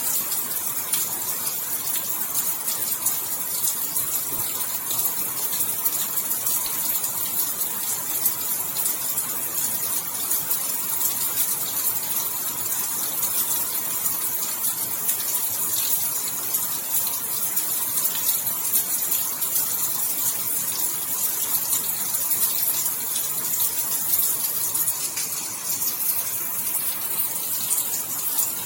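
Steady heavy rain falling, a continuous hiss with dense fine patter of drops.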